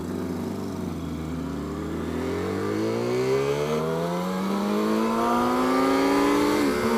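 2007 Yamaha R6's inline-four engine pulling up through the revs, its pitch climbing steadily for several seconds and then levelling off near the end.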